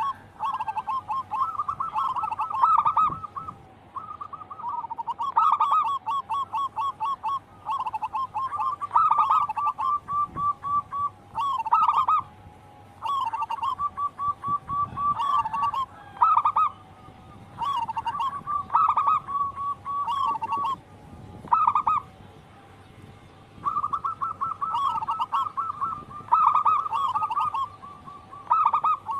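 Zebra dove singing: repeated phrases of rapid, even cooing notes, each phrase a second or two long with short pauses between, going on without a break in the song.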